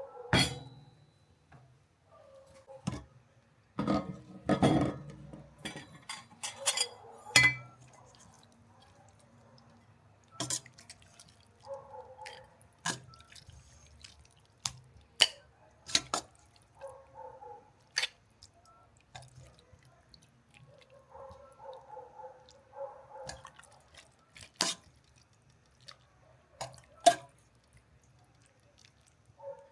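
Irregular clicks, knocks and clinks of kitchen dishes and utensils, with liquid dripping, and a cluster of heavier knocks about four to seven seconds in.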